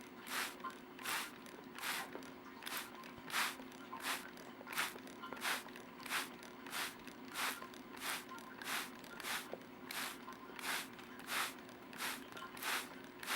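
Trigger spray bottle misting water over a bathing cockatiel in quick, regular squirts, about two a second, each a short hiss, over a faint steady hum.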